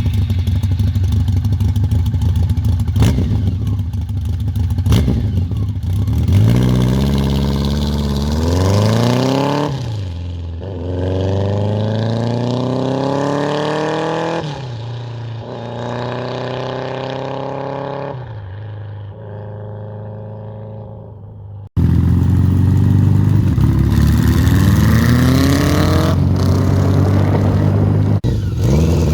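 1985 BMW K100's inline-four engine running just after starting, then pulling away and accelerating through the gears: the pitch rises and drops at each shift as the sound fades into the distance. About two-thirds of the way through it cuts abruptly to the engine running loud again with the revs climbing.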